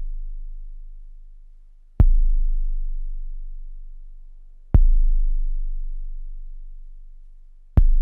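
Deep, long-decaying kick drum sample played back on a 12-bit SP-1200 sampler: three hits about three seconds apart, each a sharp click followed by a low boom that fades away slowly.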